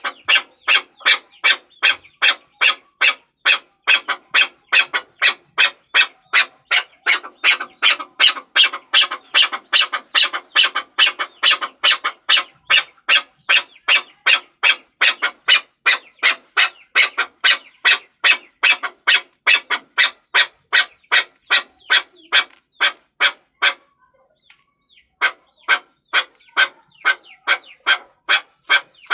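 Chukar partridge calling: a fast, steady run of short sharp notes, about three a second. The run breaks off for about a second some 24 seconds in, then starts again.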